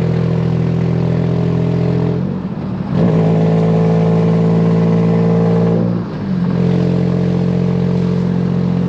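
HR-swapped Nissan Maxima's V6 engine running under way with a steady note, which drops out briefly twice, about two and six seconds in. It has a leak at a gap in the exhaust, which the owner blames for the way the car accelerates.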